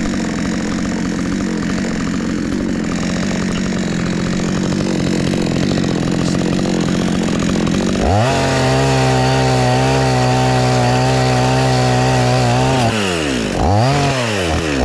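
Chainsaw cutting into a tree trunk under load. About eight seconds in it comes free of the cut and runs steadily at full throttle. Near the end the throttle is let off and blipped up again twice.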